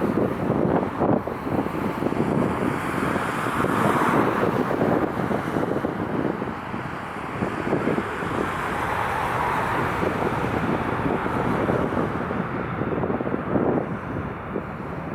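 Strong wind buffeting the microphone in gusts, a loud, uneven rumbling rush with no steady tone.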